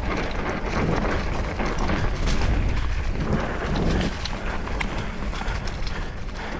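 Wind buffeting the microphone with a heavy rumble as a Trek Slash mountain bike rides a dirt trail, with tyre noise and scattered sharp rattles and clicks from the bike over rough ground.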